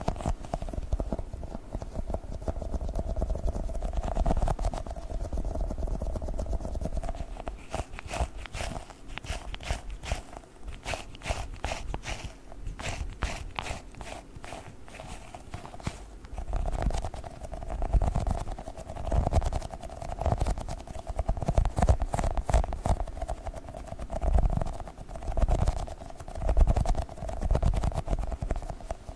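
Sticky squishy Globbles toys handled close to the microphone: a run of quick, sharp sticky clicks and pops, then clusters of softer, dull thumps as they are squished and pressed.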